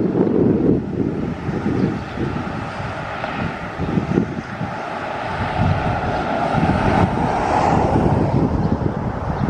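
Strong wind buffeting the microphone in uneven low gusts, over a steady rushing noise that swells about seven seconds in.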